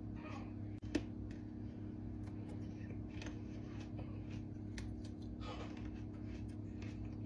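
Close-miked eating of fruit: chewing with scattered sharp wet clicks and small crunches, over a steady low hum.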